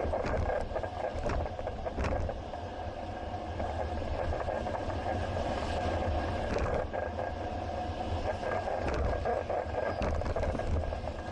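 Steady rumble of riding a bicycle along a city road, heard from a bike-mounted action camera: road and wind noise with a few short rattles and clicks.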